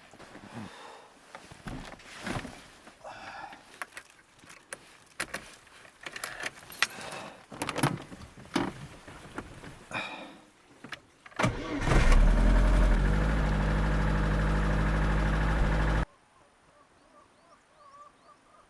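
Scattered clicks and knocks, then about eleven seconds in a vehicle engine cranks, catches and idles steadily for about four seconds before the sound cuts off abruptly. Faint chirps follow near the end.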